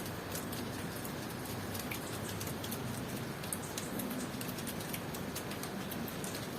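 Steady tropical rain, with many individual drops ticking sharply on nearby surfaces over a constant hiss.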